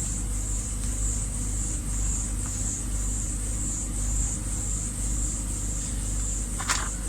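Steady low rumble under a constant high-pitched hiss that pulses about twice a second, with one brief sharp sound near the end.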